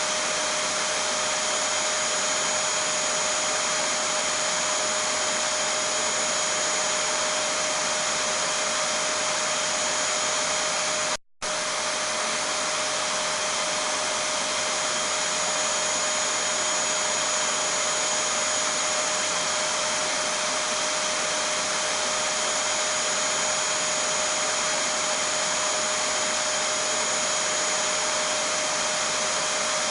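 Vacuum cleaner running steadily: a constant rushing hiss with a fixed whine over it. The sound cuts out for a split second about eleven seconds in.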